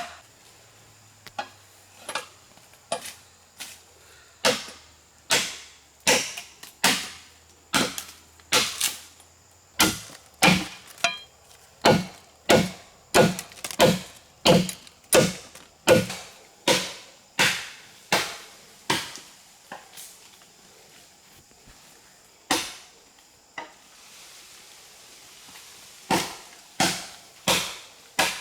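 Repeated chopping with a blade into wood or a wooden block, about one and a half strokes a second, stopping twice for a few seconds near the end.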